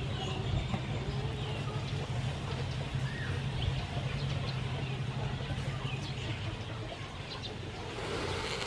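Scattered bird chirps over a steady low hum that fades out about seven seconds in.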